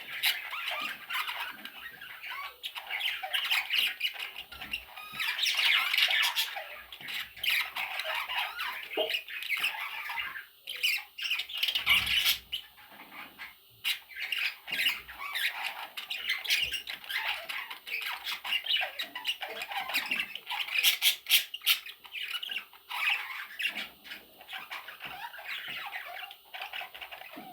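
Baby budgerigar chicks squawking in a dense, continuous chorus of raspy calls, with a few sharp clicks mixed in.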